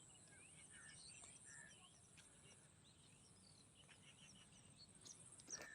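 Faint morning birdsong: many short chirps and whistles from several birds, over a steady thin high-pitched hiss. A sharper, louder call comes near the end.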